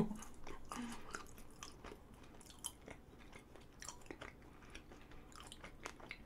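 Quiet, close-miked chewing of a soft strawberry mochi (strawberry chapssaltteok), with faint wet mouth clicks scattered throughout.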